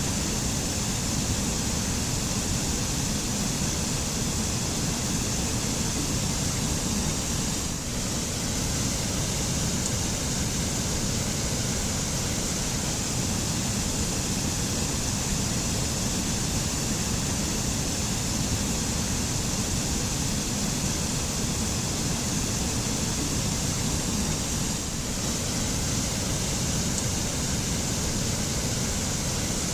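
Waterfall pouring steadily, a continuous rush of water with two brief slight dips.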